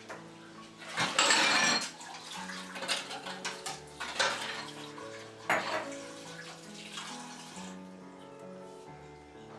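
Household kitchen sounds over soft background music: a short gush of running water about a second in, then several light clinks and knocks of dishes.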